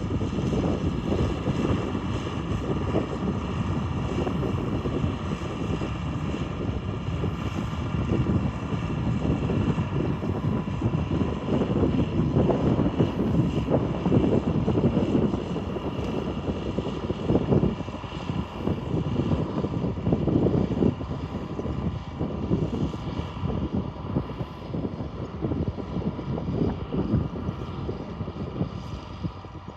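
John Deere 4955 tractor's six-cylinder diesel running steadily under load, a continuous rumble with a steady whine on top.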